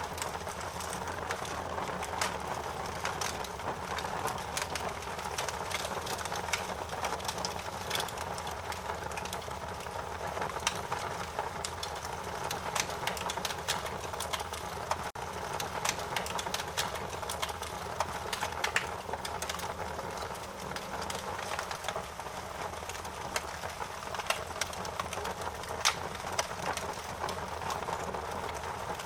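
Wood fire crackling: a steady hiss and low rumble with frequent, irregular sharp pops and snaps.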